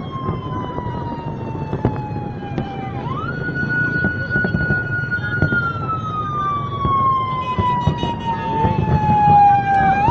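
A siren wailing. Its pitch jumps up quickly, holds for a couple of seconds, then sinks slowly over several seconds; this happens twice. Scattered sharp pops and a low rumble sound underneath.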